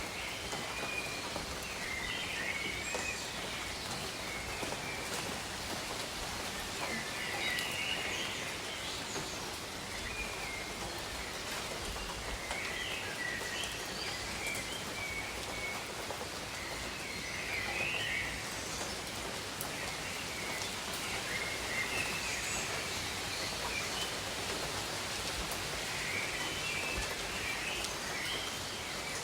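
Steady rain falling on jungle foliage, with a patter of individual drops, while birds call in short chirping phrases every few seconds.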